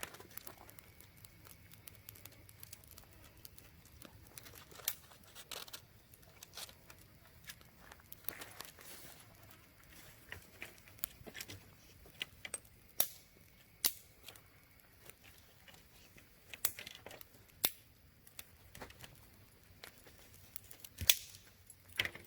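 Irregular sharp clicks and snaps over light rustling and crinkling, as from hands working close to the microphone.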